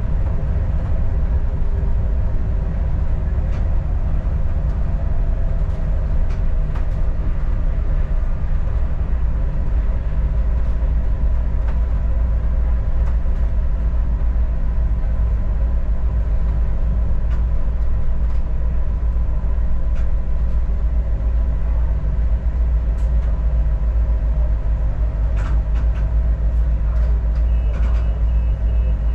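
Adelaide Metro diesel railcar under way: a steady low engine and rail rumble with occasional clicks from the track. A faint high tone comes in near the end.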